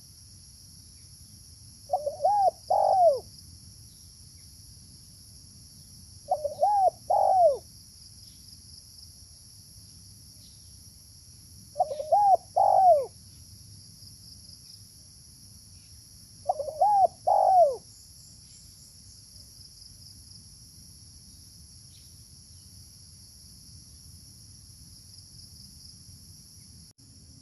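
Spotted dove (terkukur) cooing: four short phrases of a few rounded notes each, about every five seconds. A steady high insect buzz runs behind.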